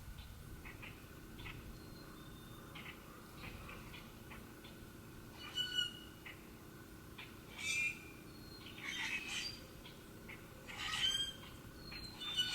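Wild birds calling: scattered short chirps, then louder, harsher squawking calls in several bursts through the second half.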